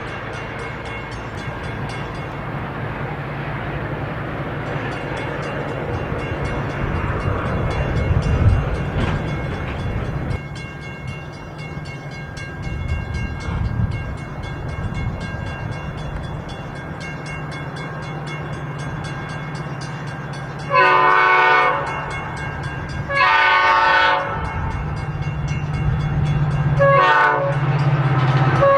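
Metra EMD F40-series diesel locomotive approaching with a steady engine drone and rail rumble, then sounding its multi-note air horn in two long blasts and a short one in the last third: the opening of the grade-crossing signal.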